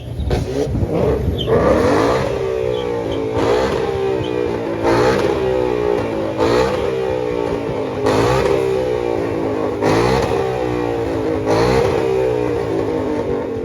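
A car engine revved over and over, about seven blips roughly a second and a half apart, its pitch falling back after each one.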